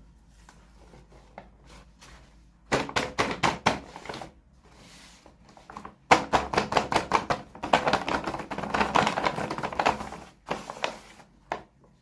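Unboxing handling noise: two bursts of rapid clicking and crinkling, like small plastic toy packaging being opened and handled, a short one a few seconds in and a longer one in the middle, then a few scattered clicks.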